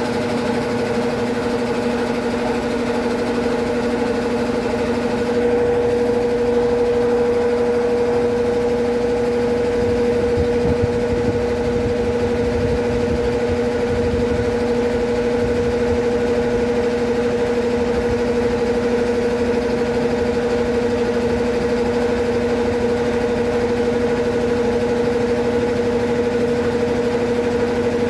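Consul Facilite 11 kg CWG11 washing machine running in its wash stage: a steady motor hum with a rougher low rumble.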